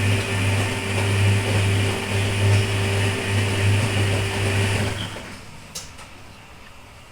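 Washing machine motor running in the wash cycle, a pulsing low hum that stops about five seconds in as the motor pauses. A couple of faint clicks follow.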